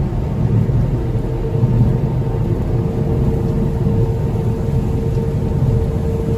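Small passenger ferry's engines running at high power with the throttle opened up: a steady low rumble with a steady whine over it.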